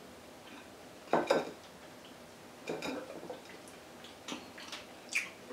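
Close-up eating noises: crunchy chewing of fried dried fish, with two louder crunches about a second and about three seconds in, then a few short light clicks near the end.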